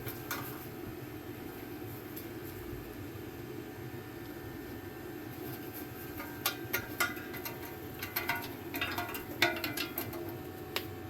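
A steady low hum, with a scatter of light clinks and taps in the second half.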